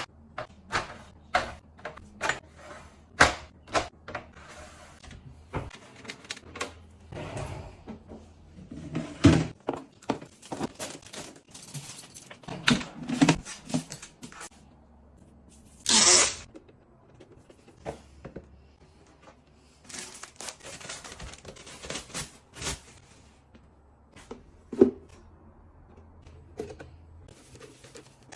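Small items and containers being handled and set down during restocking: an irregular run of clicks, taps and knocks, a few duller thuds, and a short louder burst of noise a little past the middle.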